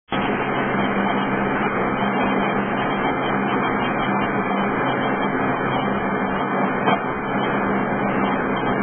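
The 1997 Mitsubishi 3000GT VR4's electric radiator cooling fans running at high speed, a steady whooshing with a steady hum under it. The fans run at full speed when starting is tried on this no-start car.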